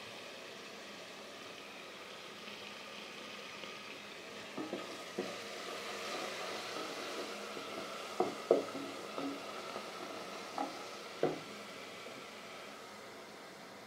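Chopped onions and coriander leaves sizzling in oil in a metal pot while a wooden spoon stirs them, knocking against the pot about seven times in the middle.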